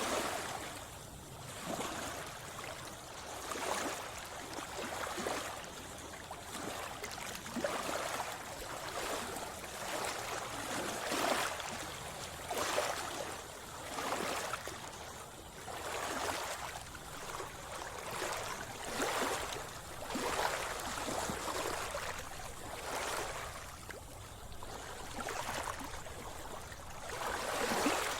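Sea water splashing and sloshing around a swimmer, swelling in surges every second or two.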